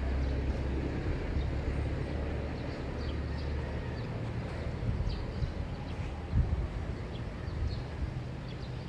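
Early-morning neighbourhood ambience: a low vehicle rumble that eases after the first few seconds, with faint scattered bird chirps over it.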